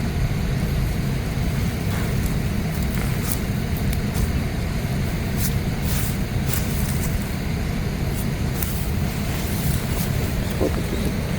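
Wind rumbling on the microphone, with a few faint clicks scattered through it.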